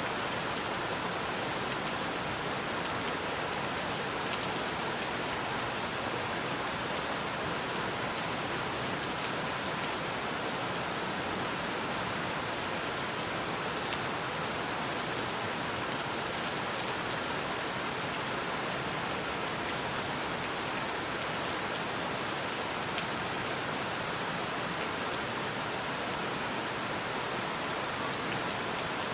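Steady rain falling: an even hiss with the fine ticks of single drops, unchanging throughout.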